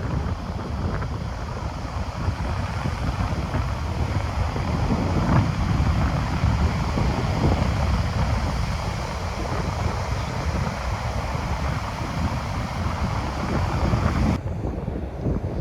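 Strong wind buffeting the microphone in a steady low rumble, over the hiss of Baltic Sea surf breaking on the beach. Near the end the higher hiss drops away suddenly while the wind rumble carries on.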